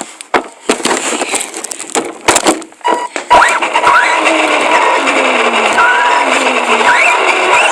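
A few sharp knocks and clicks, then about three seconds in a radio-controlled car's motor starts to whine, its pitch gliding up and down as it drives. The motor and the rush of the ground are loud because the microphone rides on the car.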